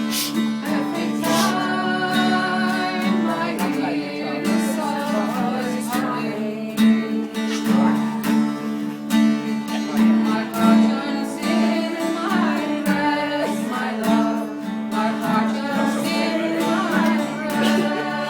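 Live music: an acoustic guitar strummed under a singing voice, over steady held low notes.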